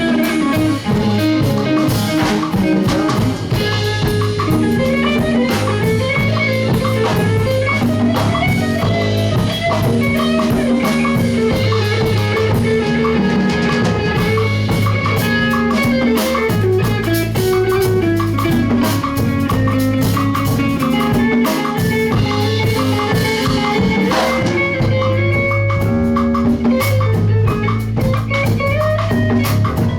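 A live band playing an instrumental passage: guitar over bass and a drum kit.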